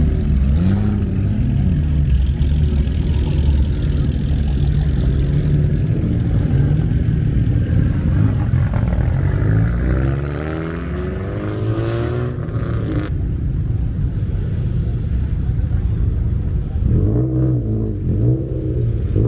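Car engines running and revving, their pitch rising and falling several times, over a steady low rumble.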